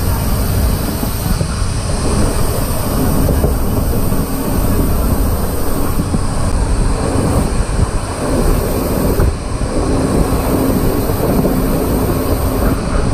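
Sleeper-class passenger train coach running at speed: a steady rumble of wheels on the rails and a rush of wind through the open barred window.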